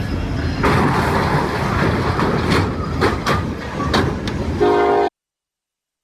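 A train running past close by, a loud rumble with several sharp bangs. Its horn sounds briefly near the end, and then the sound cuts off suddenly.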